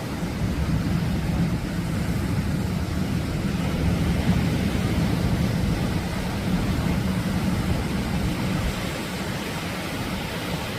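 Atlantic surf washing in, a steady noise of waves with no distinct breaks.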